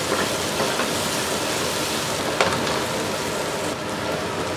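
Sliced potatoes and onions sizzling steadily as they fry in olive oil in a steel pan, with one sharp tap of the spatula on the pan about two and a half seconds in.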